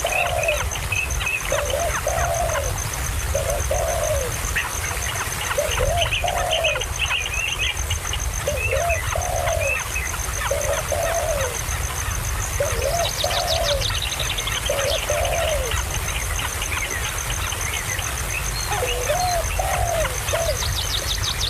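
Bird calls: a short, low, rise-and-fall note repeated about every second, often in pairs, with higher chirps between and a quick falling trill about two-thirds of the way through.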